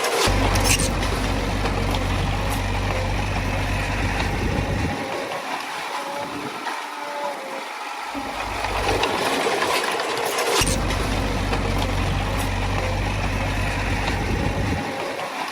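Komatsu D20A bulldozer's diesel engine running steadily, with the clatter and clicks of the tracks and stone. A heavy low rumble drops out for about five seconds in the middle, then comes back.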